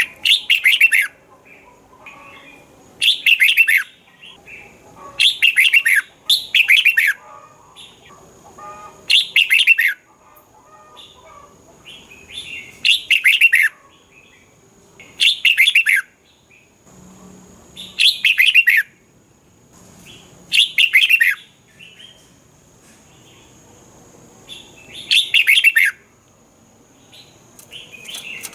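Red-whiskered bulbul singing: a short, bright, warbling phrase repeated about ten times, every two to three seconds.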